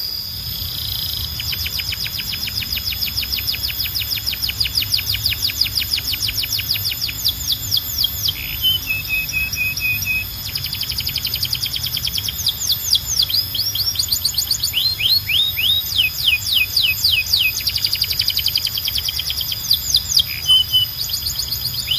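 Canary singing: fast trills of rapidly repeated rising notes, changing speed and pitch from phrase to phrase, with a slower, lower rolling trill about halfway through.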